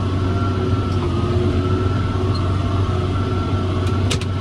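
John Deere 7410 tractor's diesel engine running steadily under load as it pulls a 468 round baler through the hay, a constant heavy drone with steady tones. A few sharp clicks sound near the end.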